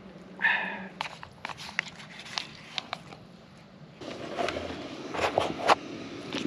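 Scattered light clicks and scrapes of camp cookware and utensils, with a short voiced sound about half a second in and busier handling noise from about four seconds in.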